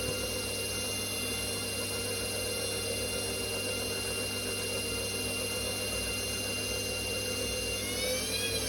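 Constructa CWF14K2A washing machine's drum motor running with a steady high whine over a low hum; near the end the whine rises in pitch and then starts to drop again. This is a machine that will not go into its spin.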